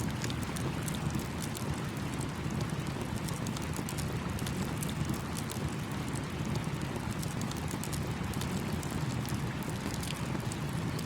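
Campfire crackling, with many small sharp pops and snaps scattered throughout, over the steady rushing babble of a small stream.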